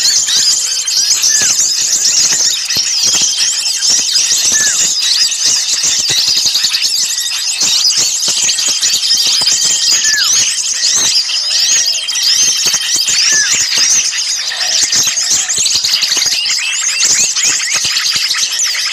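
A dense, noisy chorus of many small songbirds calling at once, with rapid high chirps and twitters overlapping without pause, some thin held whistles, and now and then a short down-slurred note. It is a bird-lure recording of agitated small birds, made to draw other small birds in.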